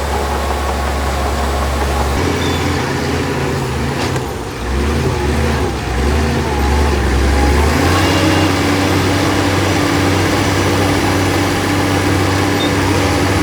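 Diesel engine of heavy earthmoving machinery running, its note shifting about two seconds in and again about eight seconds in.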